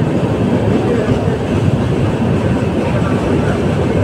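Passenger train running along the track, heard from aboard at the coach's door: a steady, loud rolling noise of the wheels on the rails.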